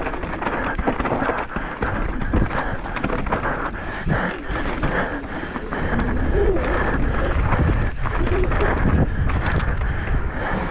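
Mountain bike ridden fast over rough ground, with wind rumbling on the camera microphone and frequent rattles and knocks from the tyres and bike.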